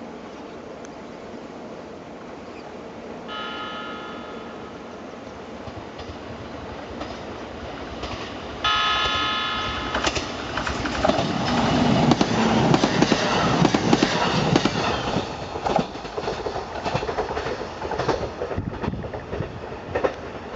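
E131 series electric train sounding its horn twice at horn-sounding signs for two unguarded level crossings: a short blast about three seconds in, then a louder, longer one near nine seconds. The train then passes close by, its wheels rumbling and clicking over the rails, easing off near the end.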